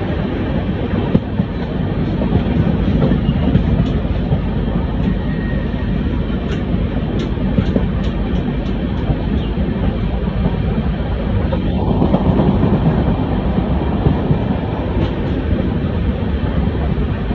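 Indian Railways passenger train running along the track: a steady, loud rumble of wheels on rails, with a few short sharp clicks about halfway through.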